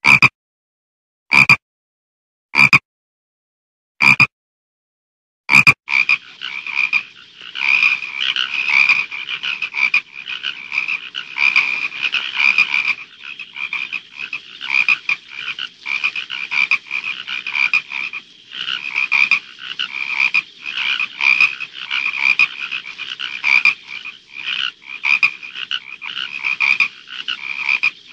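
Frogs croaking. First come five short single croaks about a second and a half apart, then from about six seconds in a dense chorus of many frogs calling over one another, rising and falling.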